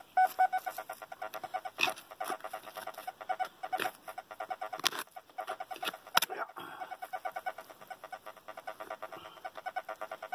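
Metal detector sounding a rapid, chattering pulsed tone over a large iron target, with a few sharp knocks.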